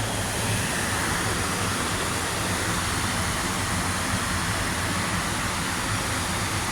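Water rushing steadily over a dam and falls, a constant even rush with no change.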